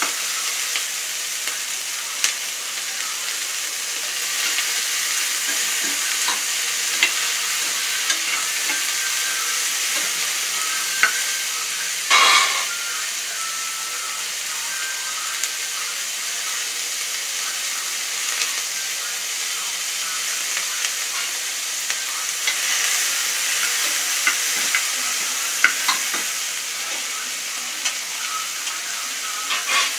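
Sliced onions, green chillies, cashews and whole spices sizzling steadily in an aluminium pressure cooker. A steel spatula stirring them scrapes and clicks against the pot now and then, with one louder rattle about twelve seconds in.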